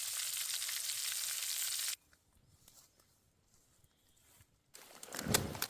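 Steak sizzling in a hot cast iron skillet, a steady hiss that cuts off abruptly about two seconds in. After a near-silent gap, rustling with sharp clicks and low knocks starts near the end.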